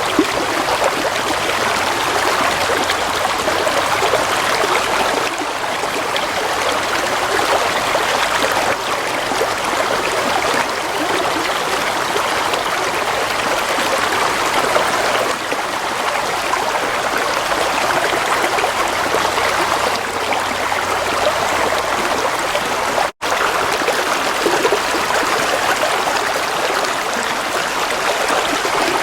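Gently flowing water running steadily like a small stream, with an even rushing and trickling. It cuts out for an instant about 23 seconds in.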